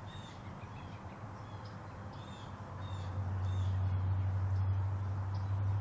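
A bird calling over and over with short high chirps, about two a second, over a low steady hum that grows louder about halfway through.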